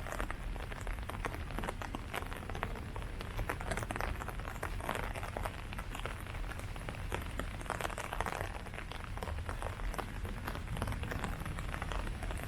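Rain falling steadily on leaves, a dense patter of many small drops.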